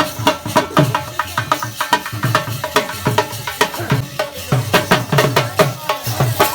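Dhol drum played in a fast, steady rhythm of sharp slaps and deep thumps, several strokes a second.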